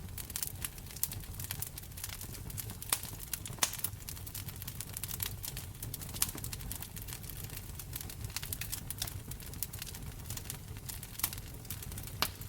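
Wood fire in a fireplace crackling: a dense run of small clicks with several louder, sharper pops scattered through it, over a steady low rumble.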